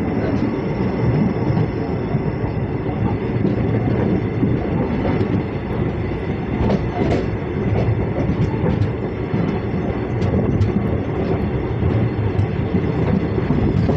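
Express passenger train running on the track: a steady, heavy rumble of wheels on rail, with scattered irregular clicks.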